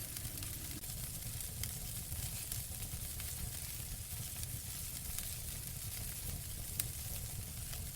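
Wood fire in a fireplace crackling: a steady hiss and low rumble of the burning logs with scattered sharp pops, a louder one near the end.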